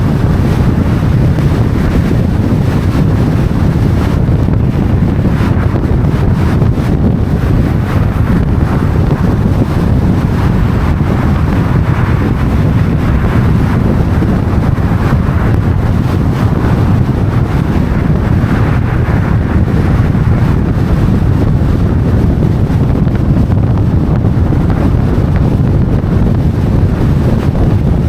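Steady low rumble of wind buffeting the microphone, with city street traffic running underneath.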